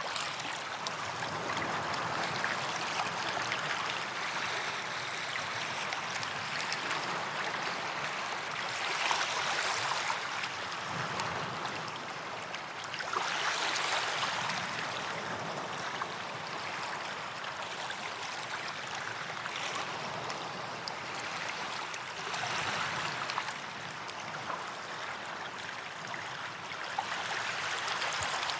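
Small waves washing onto a sandy beach, swelling and fading every few seconds.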